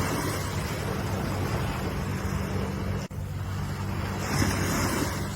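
Ocean waves washing in a continuous hiss that swells near the start and again about four and a half seconds in, over a steady low hum, with a momentary break about three seconds in.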